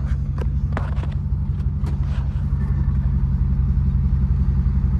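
Dodge Ram 1500's 5.7L Hemi V8 idling steadily on fresh oil, with a few light clicks and knocks in the first two seconds.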